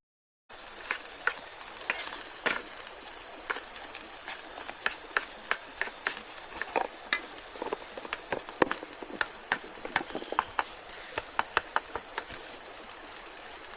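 Irregular sharp clicks and taps of cooking utensils against cookware while food is being prepared, about two or three a second, with a steady high-pitched drone underneath.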